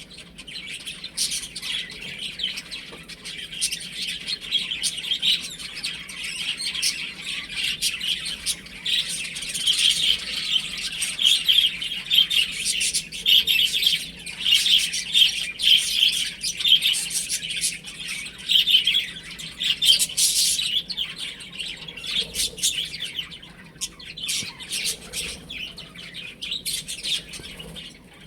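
A group of baby chicks peeping: many short, high chirps overlapping without a break, busiest in the middle.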